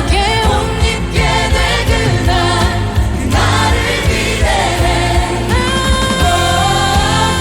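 A choir singing in several parts over instrumental accompaniment with a steady bass line. A new phrase comes in about three seconds in.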